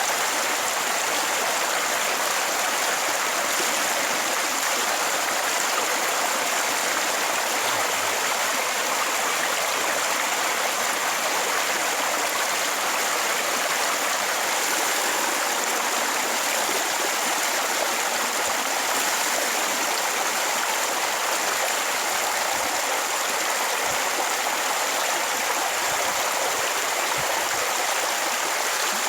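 Steady rushing noise like running water, unchanging throughout.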